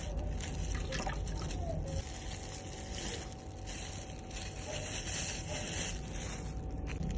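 Liquid being poured and trickling, with drips.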